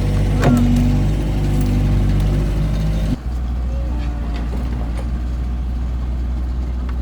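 A motor running steadily with a low hum. A little past three seconds the sound changes abruptly: the upper tones drop away and only a duller low hum carries on.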